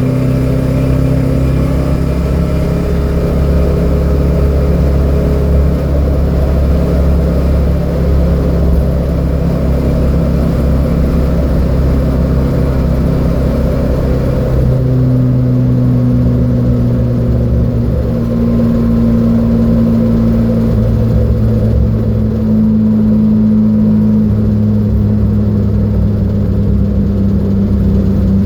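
Datsun B210's four-cylinder engine running hard at track speed, its note holding steady and then climbing in stages from about halfway through.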